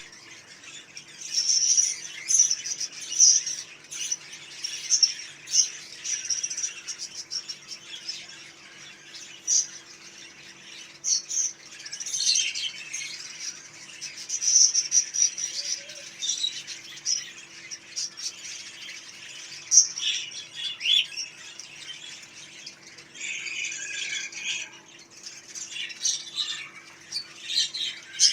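Small caged pet birds chirping and calling, with many short, high-pitched calls overlapping in irregular bursts.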